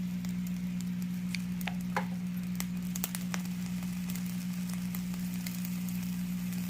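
Squid sizzling as it grills, with scattered sharp crackles and pops over a steady low hum.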